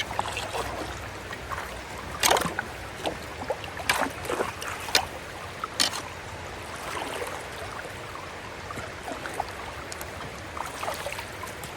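Creek water running through a culvert, with sharp splashes and sloshing several times in the first half as debris is worked loose from the clogged culvert entrance.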